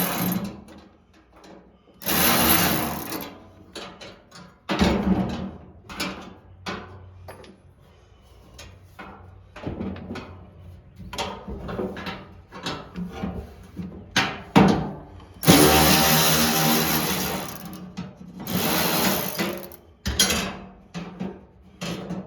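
Handheld power drill running in several short bursts of one to two seconds, the longest about two and a half seconds, with clicks and clanks of hand tools and parts between them.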